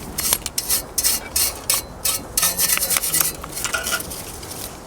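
Irregular scraping and rubbing strokes on metal as old seal material and debris are cleared off a gas boiler's parts by hand.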